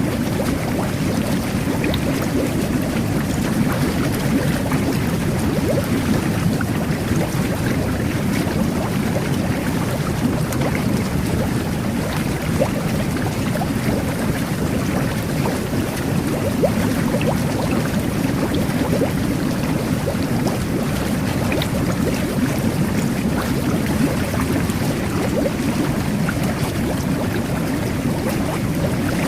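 Jet bath (whirlpool tub) churning the bathwater with streams of air bubbles, a steady, even bubbling and gurgling that holds without change.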